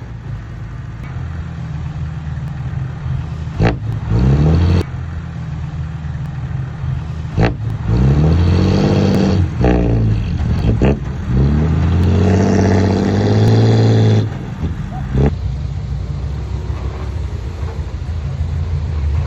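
Heavy earthmoving machine's diesel engine running under load, its revs rising and falling in several surges over a steady low drone. The longest and loudest surge runs from about eight to fourteen seconds in, and a few sharp knocks come with the engine changes.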